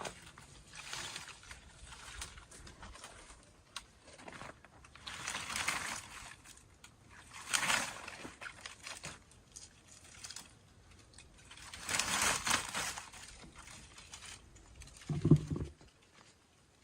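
Several bursts of rustling and crunching from branches and forest litter being gathered, with a short, louder, low sound near the end.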